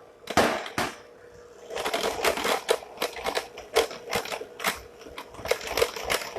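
Irregular clicks and light knocks of kitchen utensils against a bowl while flour is added to cake batter.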